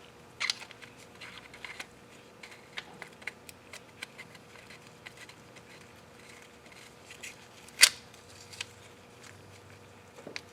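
Scattered light clicks and taps of hand tools and engine parts being handled, with one sharper, louder click about eight seconds in, over a faint steady hum.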